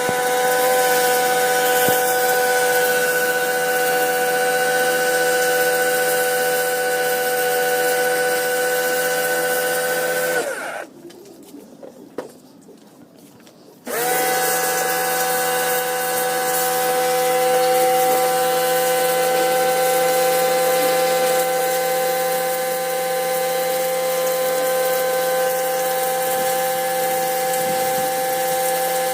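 A power tool's motor running at a steady high whine, stopping about ten seconds in and starting again a few seconds later.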